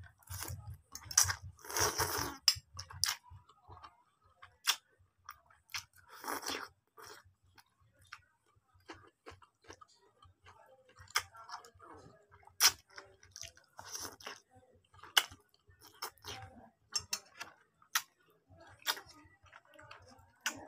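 Close-up eating sounds: chewing fried instant noodles and crunching bites of a raw cucumber, with many sharp clicks and a few longer noisy bursts, the loudest about 2 and 6.5 seconds in.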